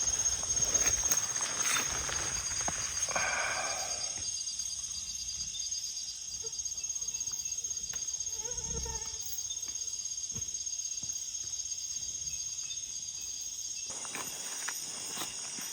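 Night rainforest insect chorus: a steady high-pitched trilling of crickets and katydids. A short pitched animal call comes about three seconds in.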